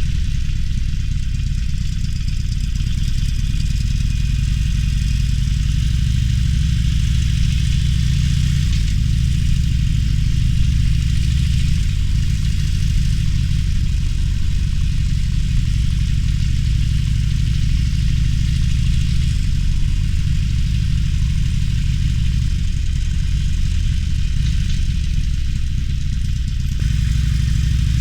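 Harley-Davidson Roadster's air-cooled V-twin engine running while riding, a steady deep exhaust note that shifts in pitch now and then as the throttle changes.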